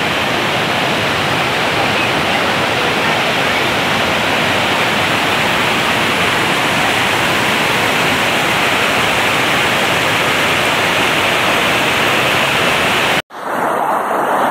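Waterfall on a fast mountain river, a steady loud rush of falling water. It cuts off abruptly near the end and comes back slightly duller.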